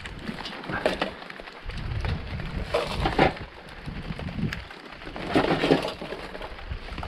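Debris crunching and cracking as scrap is rummaged through, in three bouts, over a low muffled rumble from a water-damaged action-camera microphone.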